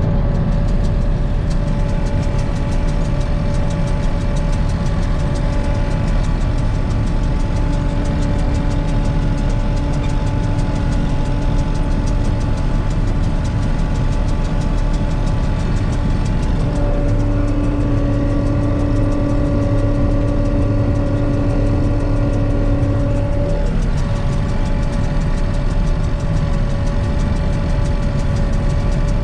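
John Deere 8820 combine running steadily while harvesting soybeans, its engine drone layered with several steady mechanical whines. In the middle, one whine grows stronger for several seconds and then drops away.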